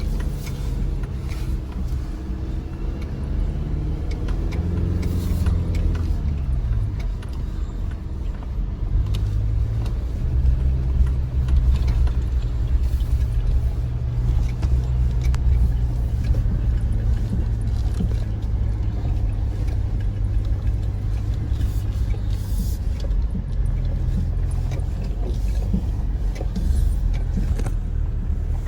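The engine of a 2025 Chevy Colorado ZR2 pickup runs steadily as the truck crawls over rough trail, with a pitch that rises and then falls back about five seconds in. Frequent clicks and knocks come from the truck working over the uneven ground.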